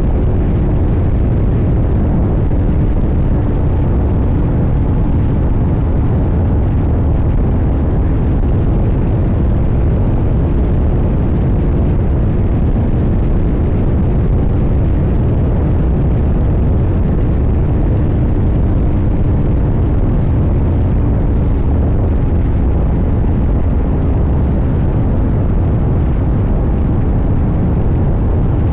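CFMoto 800NK's parallel-twin engine running at a steady cruise, heard from a tank-mounted camera through heavy low wind rush. There are no sharp revs or shifts, only a slight drift in engine pitch.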